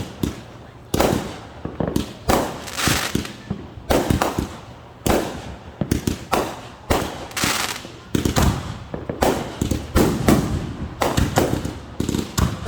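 Consumer fireworks going off one after another: sharp bangs, several close together at times, each followed by a short fading crackle or hiss.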